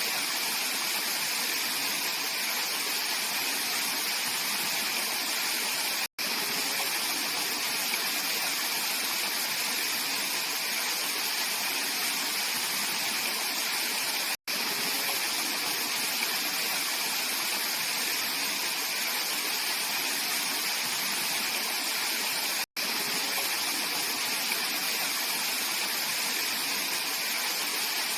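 Mountain valley stream flowing steadily, a continuous rushing of water, broken three times by a split-second gap of silence.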